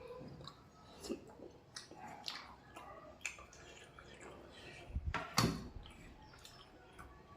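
Close-up eating sounds of someone eating curry by hand: wet chewing and lip smacks in irregular short clicks, with one louder knock about five seconds in.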